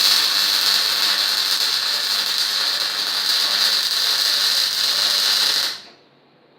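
MIG welding arc running steadily with a dense, hissing crackle while a downhill bead is laid; the arc cuts off about six seconds in.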